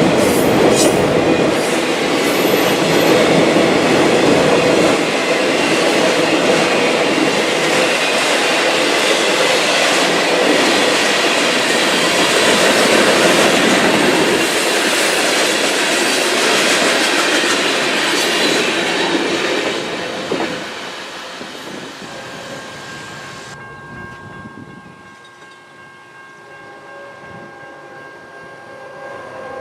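Freight train cars rolling past on the rails with a steady clickety-clack of wheels over rail joints and a little wheel squeal. The rolling noise fades away over the last third.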